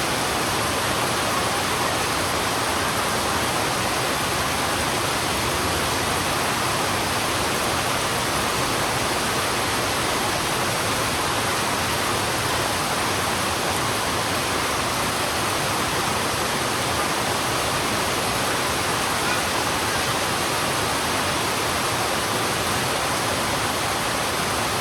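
Heavy rain falling on a road: a steady, unbroken hiss with no single drops or other events standing out.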